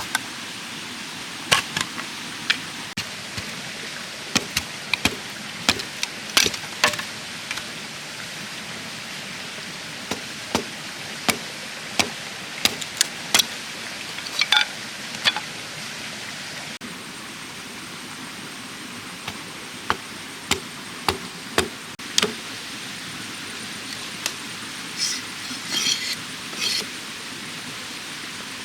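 Hand tools striking bamboo: irregular sharp knocks and chops, one or two a second, with a short pause around the middle, over a steady background hiss.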